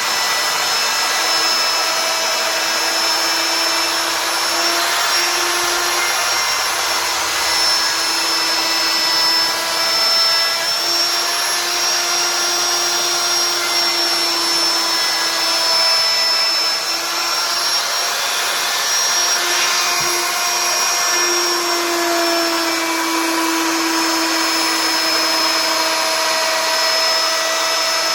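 CNC wood router's spindle running steadily while carving wood, a high motor whine over cutting noise, its pitch wavering slightly.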